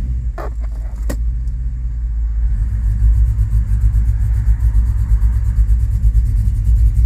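A 2005 Chevrolet Tahoe's 5.3-litre V8 running with a low, steady rumble while misfiring and running lean, the engine computer adding fuel. Two sharp clicks come about half a second and a second in.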